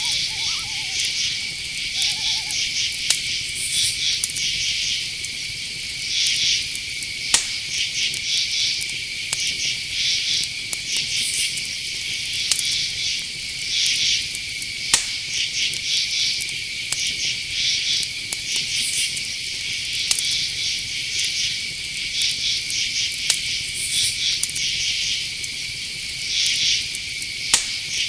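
Night-time insect chorus: a steady high cricket trill under pulsing chirps that repeat about once a second. A short owl call comes about two seconds in, and there are a few sharp clicks.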